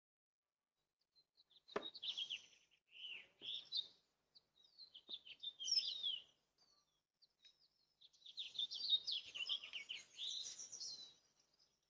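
A small songbird chirping and twittering in quick high trills, in three bursts, the last and longest about eight seconds in. A sharp click comes about two seconds in.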